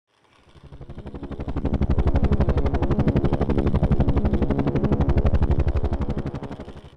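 Helicopter rotor chopping in rapid, even beats, about a dozen a second. It swells up over the first two seconds, holds, and fades away near the end.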